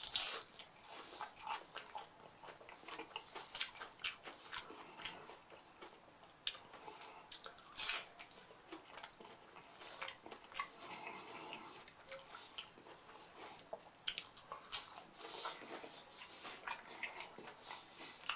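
Close-up chewing and biting of crunchy hard-shell mini beef tacos: irregular crisp crunches and mouth sounds throughout, the loudest crunch about eight seconds in.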